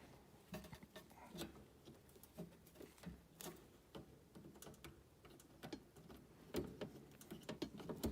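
Faint, scattered clicks and small taps of hand work as wires are fitted to terminals, a few louder clicks among them at uneven intervals.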